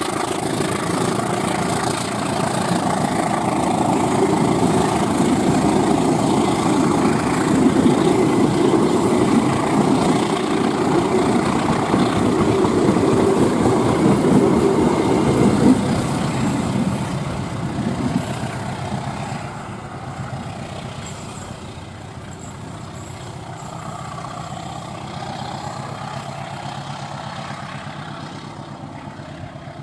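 A train running past close by, its rumble loud for the first sixteen seconds or so and then fading steadily as it moves away.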